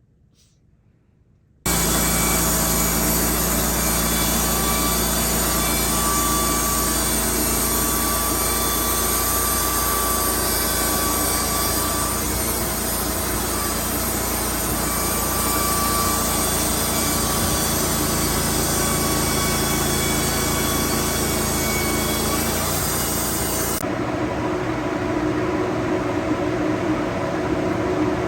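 Woodmizer LT15 band sawmill running steadily as it cuts a pine log, its engine holding a constant pitch with a faint whine coming and going. Near the end the sound switches abruptly to a softer steady whir.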